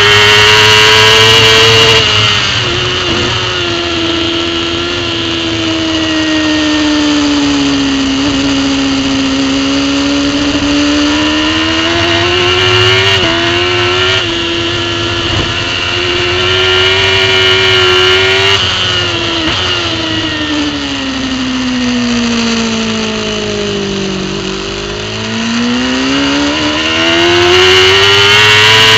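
Racing superbike engine heard from on board, at full throttle at first, then backing off about two seconds in with quick steps in pitch as it is shifted down. The note sinks slowly, climbs, dips again for a long stretch past the middle, then rises hard near the end with an upshift at the very end, over steady wind rush.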